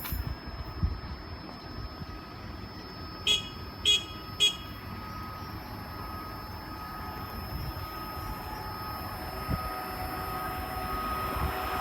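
A car horn tooted three times in quick succession, about half a second apart. Behind it a steady hum with a few held tones grows slowly louder towards the end.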